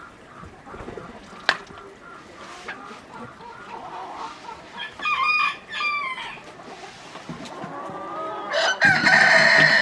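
Chickens clucking and calling, with a loud rooster crow near the end and a single sharp click about a second and a half in.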